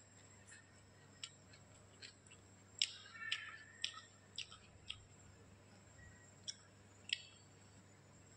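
Someone chewing rice and chicken curry eaten by hand: faint scattered wet mouth clicks and lip smacks, with a busier run of them about three seconds in.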